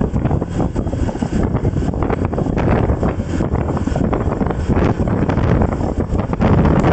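Wind buffeting the microphone: a loud, gusty rumble, heaviest in the low end.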